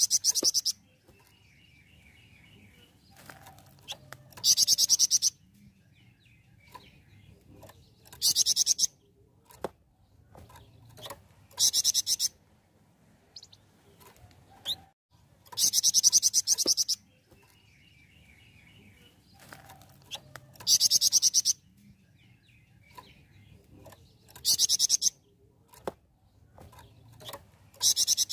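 Flamboyan songbird (Indonesian cage-bird) singing: a loud, very high, rapid trilling phrase about a second long, repeated about every four seconds, with soft twittering between phrases.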